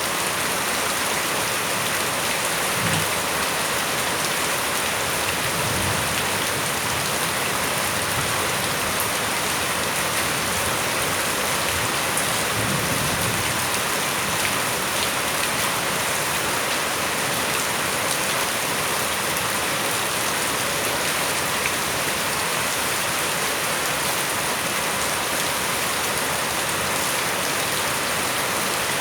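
Steady rain falling, a continuous even hiss of drops on surfaces, with a few brief low rumbles about 3, 6 and 13 seconds in.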